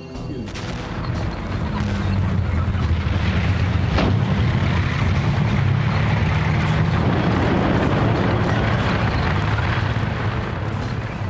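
Battle sound effects: a dense, steady rumble with a low engine drone, building over the first two seconds and easing near the end, with one sharp crack about four seconds in.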